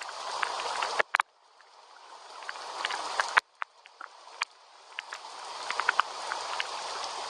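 Gentle rain: a steady hiss with individual drops ticking sharply. The hiss swells gradually and cuts out abruptly about a second in and again a little past three seconds, then builds back up.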